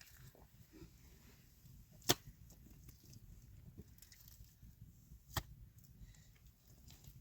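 Two sharp knocks about three seconds apart, with a few faint taps between.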